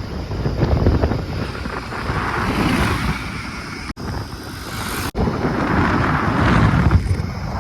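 Heavy diesel engine of a working JCB machine or tractor running under load, with wind noise on the microphone; the sound swells and eases and cuts out briefly twice.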